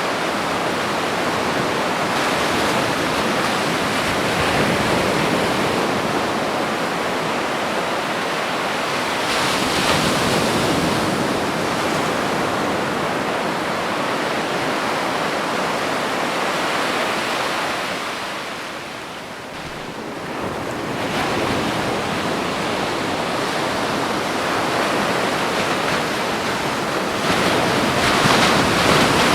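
Ocean surf washing onto a beach, a continuous rush of breaking waves that swells about ten seconds in and again near the end and eases off briefly about two thirds of the way through.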